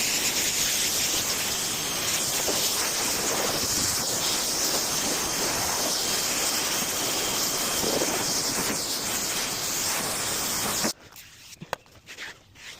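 A detailing tool gives a steady, loud rushing hiss that cuts off suddenly about eleven seconds in. A few faint clicks and rubs follow.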